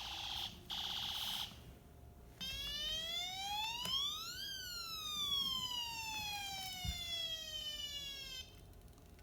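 Toy police car's electronic siren sounding on its own: two short buzzy blasts, then one wail that rises for about two seconds and falls slowly for about four.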